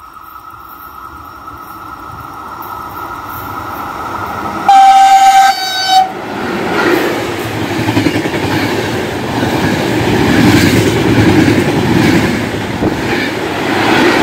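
Intercity train hauled by FS E414 electric locomotives passing through the station at speed: its rumble builds as it approaches, the leading locomotive sounds its horn in one long blast and a short one about five seconds in, then the carriages rush past loudly.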